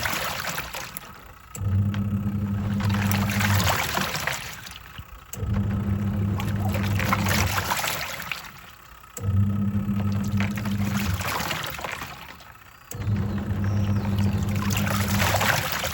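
Twin-tub washing machine's wash tub agitating: the motor hums in runs of about two seconds with short pauses between as the pulsator changes direction, about four times, and water swishes that swell and fade with each run.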